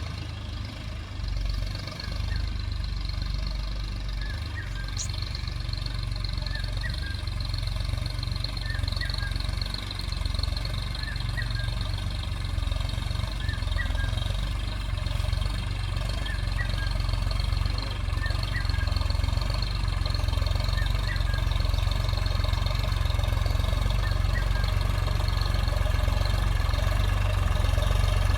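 Solis 4215 tractor's diesel engine running steadily with a deep hum, gradually getting louder. A faint short chirp repeats about every two seconds.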